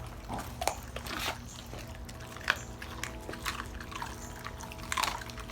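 A dog licking and chewing a raw chicken thigh: irregular wet smacking and slurping clicks.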